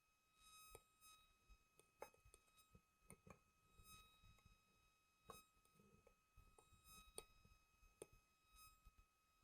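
Near silence with faint, irregular clinks of a fork against a plate as banana cake batter is stirred, over a faint steady high-pitched whine.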